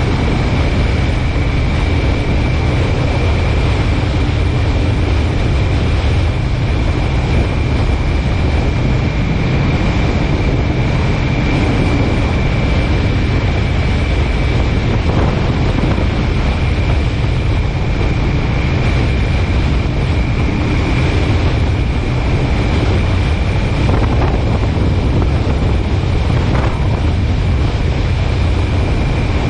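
Steady road and wind noise from a car driving at speed, with a faint steady high whine throughout.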